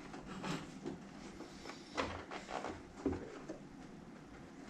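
Faint scattered handling noises: a few soft knocks and rustles as the webbing strap is turned around to be stitched the other way.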